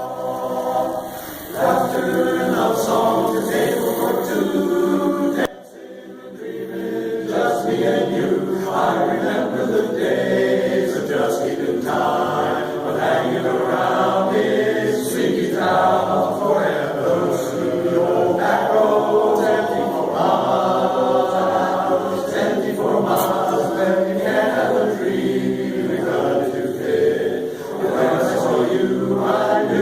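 Barbershop chorus singing a cappella in close harmony, with a brief break about five and a half seconds in.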